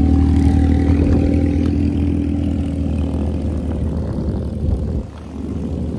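Dirt bike engine running steadily while riding, with a low hum. The sound dips briefly about five seconds in.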